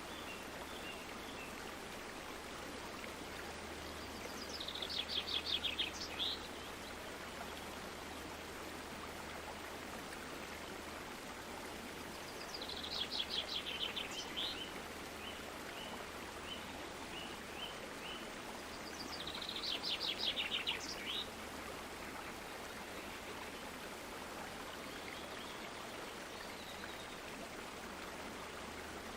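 Steady rush of flowing water, with a songbird singing three short phrases of rapid high trilled notes, each about a second and a half long and several seconds apart.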